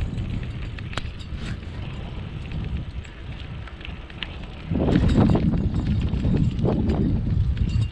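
Wind buffeting the microphone, a steady low rumble that grows markedly louder about five seconds in.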